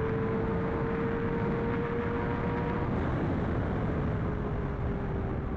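Superbike engine held at steady high revs while riding at speed. The engine note creeps slightly higher, then eases off a little about three seconds in, under heavy wind rush on the microphone.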